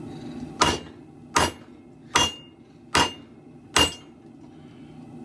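Five hammer blows on a steel broadsword blade being forged, about 0.8 seconds apart, each with a short metallic ring.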